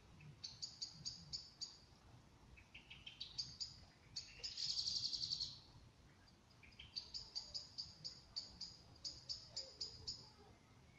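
A songbird singing: several phrases of short, high notes repeated evenly about five a second, with a faster, louder trill about four to five seconds in.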